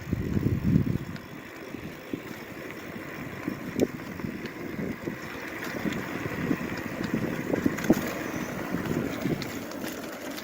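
Wind buffeting the microphone while riding a bicycle, heaviest in the first second, over a steady rushing hiss with scattered light clicks and rattles.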